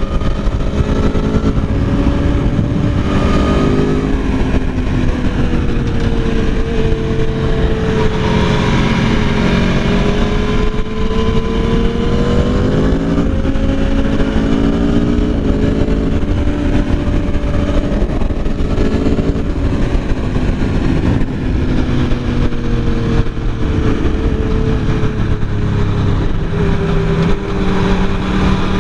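Aprilia Tuono V4 1100's 1077 cc V4 engine at speed on track, its note rising and falling with the throttle through the corners, heard from the rider's position over wind noise.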